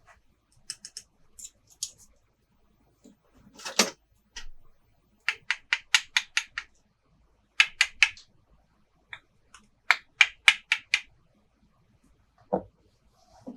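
Quick runs of small sharp clicks and taps, about six a second, from plastic toy playset pieces being handled. There is a brief rustle just before 4 s and a single knock near the end.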